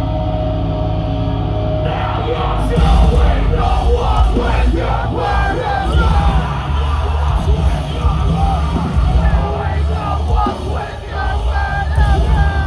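Metalcore band playing live: a sustained droning note, then about two and a half seconds in the full band comes in loud with heavy distorted guitars, pounding drums and yelled vocals.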